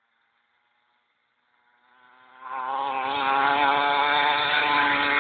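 Small child's motorbike engine buzzing at a high, steady pitch, faint at first and growing quickly loud about halfway through as the bike comes close.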